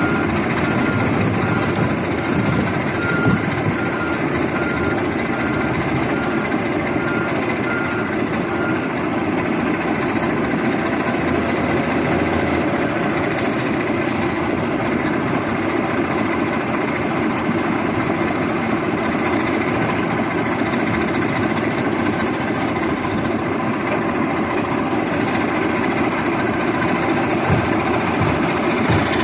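An old bulldozer's diesel engine running steadily. A series of short, evenly spaced beeps sounds over it through roughly the first third.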